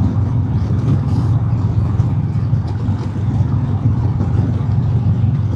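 Harley-Davidson Milwaukee-Eight V-twin engine running steadily at cruising speed, with a steady rush of wind noise over it.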